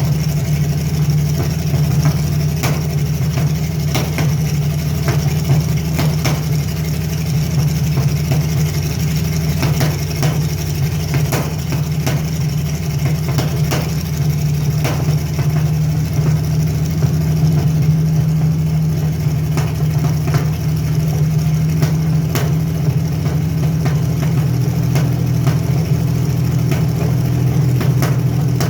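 Carbureted Chevy Lumina's 3100 V6 engine idling steadily, with sharp ticks or pops at irregular intervals. It is misfiring; the owner traced the misfire to a bad coil pack, with a small vacuum leak as well.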